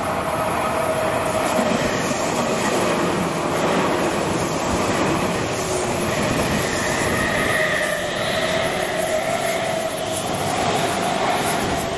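Tokyu 5000 series electric commuter train running past at speed on a curve: steady rumble of wheels on rail with a constant whine. A higher wheel squeal rises about seven seconds in and fades again.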